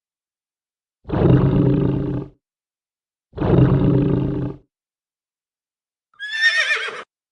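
Two deep animal roars, each a little over a second long, then near the end a horse whinnying in a high, wavering call.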